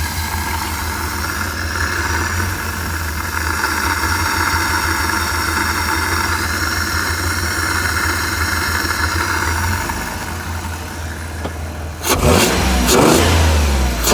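A 1994 Chrysler Town & Country minivan's engine idling steadily, with a hiss over it, during an intake cleaning with Powerfoam. About twelve seconds in, the engine is suddenly revved and gets much louder.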